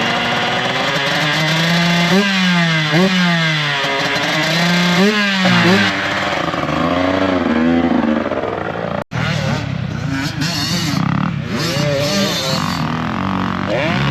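2009 125cc two-stroke motocross bike revved in repeated blips, its pitch climbing and dropping about once a second, then easing off into gentler swells. After an abrupt cut about nine seconds in, dirt bike engines run at varying revs.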